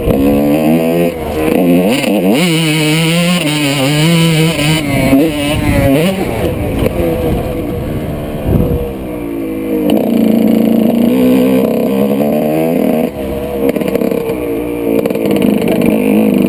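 Two-stroke motocross bike engine revving hard on and off the throttle, its pitch rising and falling again and again as it is ridden.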